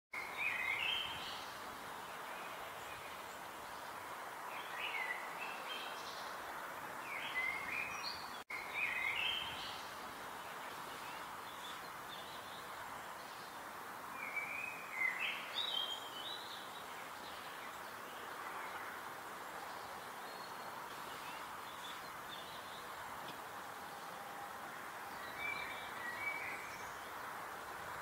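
Small birds singing short chirping phrases every few seconds over a steady outdoor hiss.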